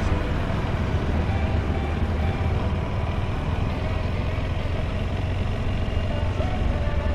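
A motor vehicle's engine running steadily, a continuous low rumble with a noisy wash over it.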